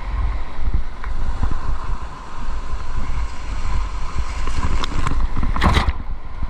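Kayak on a fast river: water rushing past under heavy wind rumble on the microphone, with a brief louder rush of water about five and a half seconds in.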